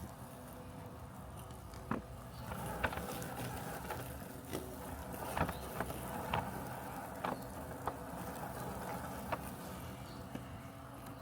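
Robotic lawn mower running with a steady mechanical hum. Short sharp ticks come at irregular intervals, about eight in all.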